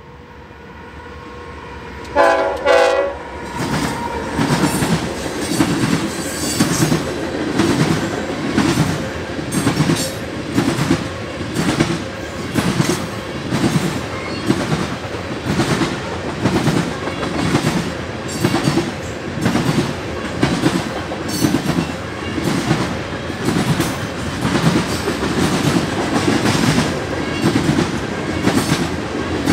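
Freight train passing: the lead locomotive, a CSX AC44C6M, sounds one short horn blast about two seconds in. A long string of covered hopper cars then rolls by with a steady, rhythmic clickety-clack of wheels over the rail joints.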